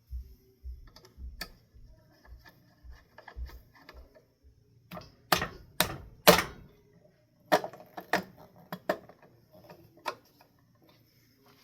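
Clicks and knocks of ceiling fan parts being handled and fitted during installation. Soft low thumps come about twice a second at first, then a few sharp, loud knocks about halfway through and a second cluster of clicks after that.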